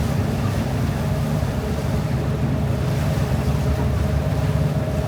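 Steady low drone of a river cruise boat under way, its engine hum carrying a faint steady whine, with wind on the microphone.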